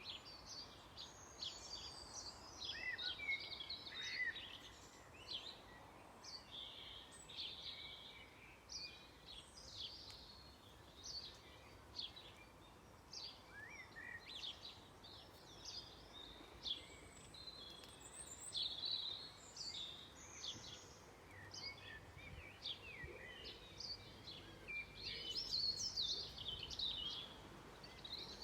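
Several songbirds singing together in an evening dusk chorus, a dense run of short, high chirps and trills. It is busiest near the start and again twice later, with quieter gaps between.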